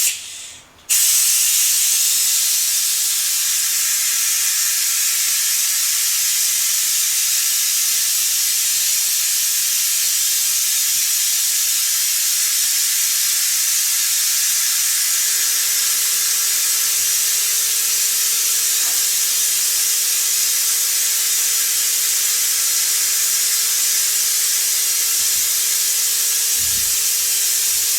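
Pneumatic (compressed-air venturi) vacuum brake bleeder hissing steadily as it pulls brake fluid and air out through the caliper's bleeder valve. The hiss cuts out briefly at the start and comes back about a second in. A faint steady hum joins about halfway through.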